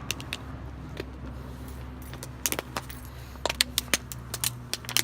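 Irregular light metallic clinking and rattling, in short clusters, over the steady low hum of an idling car engine.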